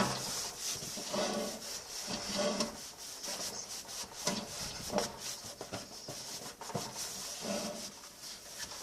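A cloth rag rubbing and wiping the inside of a microwave in repeated uneven strokes, scrubbing off grime loosened by a spray cleaner.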